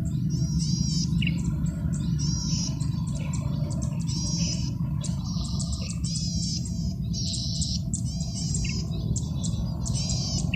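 Male golden-headed cisticola singing: buzzy, rippling phrases repeated about once a second, with short sharp notes between them. A steady low rumble runs beneath the song.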